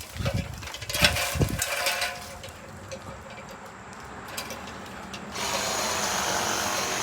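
Power saw trimming tree limbs: heavy knocks and thumps of wood in the first second and a half, a quieter stretch with scattered clicks, then the saw's motor running steadily again with a high whine from about five seconds in.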